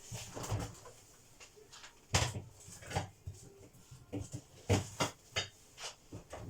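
A series of clunks and knocks from a refrigerator door being opened and shut and a salad bowl set inside, the loudest a little over two seconds in and a cluster of knocks near the end.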